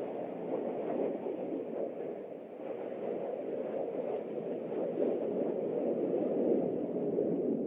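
Steady low rumble of jet aircraft engines at an air show, without clear rises or passes.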